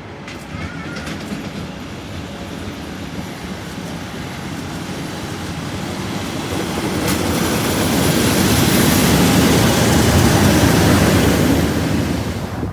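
A train approaching and passing at speed, its rushing wheel-and-rail noise building steadily to a loud peak near the end, then cutting off abruptly.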